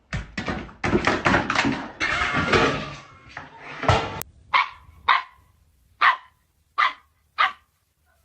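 Dog barking: five short, sharp barks spaced under a second apart in the second half, after a few seconds of dense, noisy commotion.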